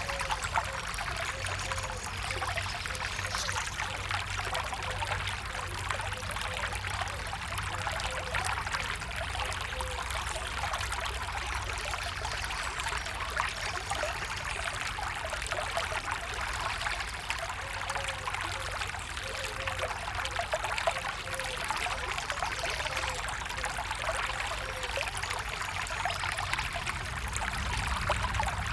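A stream of water flowing and trickling steadily, with small gurgles now and then.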